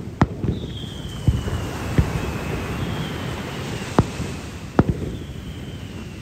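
Aerial fireworks shells bursting in a string of sharp bangs, about five in six seconds, with a high whistle that slides down in pitch and comes again every couple of seconds.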